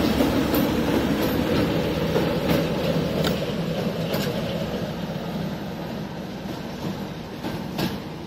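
A locomotive running past and drawing away along the track, its low rumble gradually fading, with scattered clicks from the wheels over rail joints.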